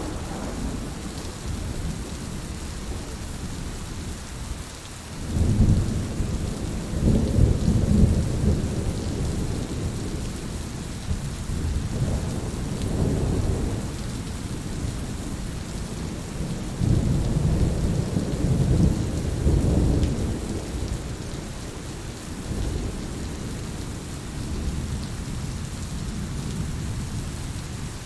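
Steady rain, with rolling thunder rumbling in deep swells several times: a long roll about five seconds in, another near the middle and a third past the halfway mark.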